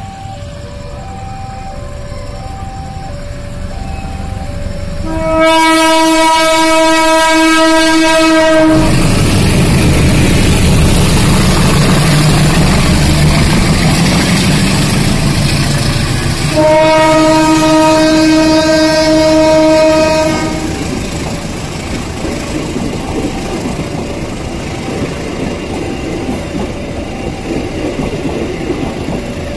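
A two-tone warning signal alternates as a diesel-hauled passenger train approaches. The locomotive's horn then blows about five seconds in for roughly three seconds, the engine rumbles past close by, and a second horn blast of similar length follows at the halfway point. After that, the passenger coaches roll past with their wheels clattering over the rail joints.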